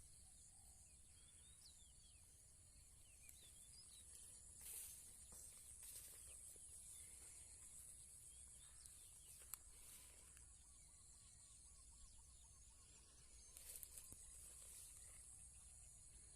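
Faint, steady high-pitched insect chirring, with a few faint chirps, a short trill about ten seconds in, and a few soft rustles or knocks.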